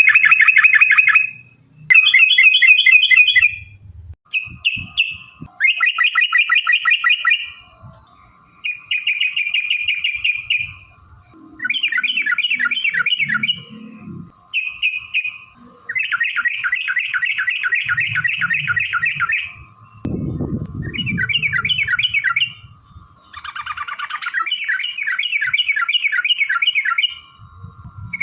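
Yellow-vented bulbuls (trucukan) singing a series of rapid, bubbly chattering trills, each phrase lasting one to three seconds with short pauses between.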